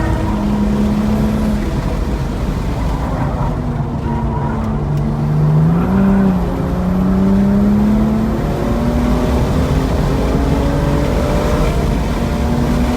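BMW M235i's turbocharged 3.0-litre straight-six at speed on a race track. The engine note drops as the car slows about four seconds in, then climbs under hard acceleration with an upshift around eight seconds in and keeps rising, over a steady low rumble.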